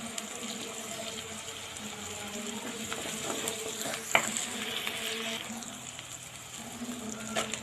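Onions and ginger-garlic paste sizzling in hot oil in a clay pot, stirred gently with a spoon, with one sharp tap about four seconds in.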